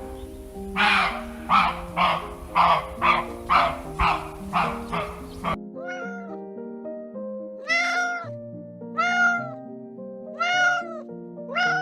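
Background music throughout. A run of about eight harsh, noisy animal calls, coming faster, cuts off about five and a half seconds in. Then a cat meows four times, each call rising and falling in pitch.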